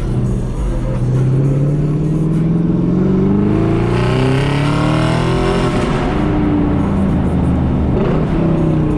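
Car engine accelerating hard, its pitch climbing steadily for about four seconds, then dropping sharply around the middle at a gear change before climbing again.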